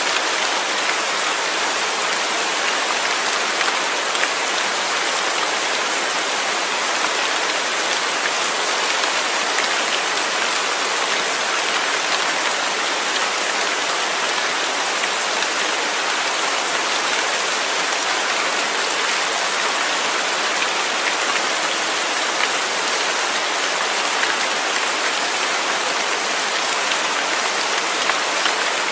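Steady rain falling, an even hiss of many small drop ticks with no change in strength.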